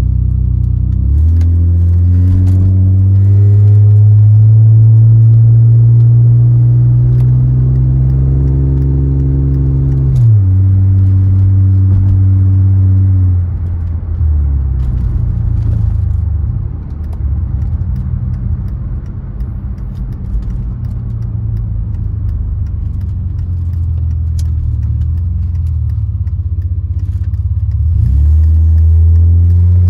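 Mercedes-Benz 300TE's AMG 3.4-litre 24-valve straight-six, heard from inside the cabin, pulling up through the revs for about ten seconds, then dropping in pitch. A few seconds later it falls back to a quieter, lower, uneven run, and it climbs again near the end.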